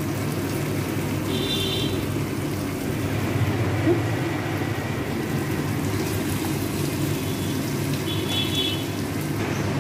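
Spice masala, tomato and soaked rice sizzling steadily in mustard oil in a kadai while being stirred with a spatula; the masala is nearly done frying.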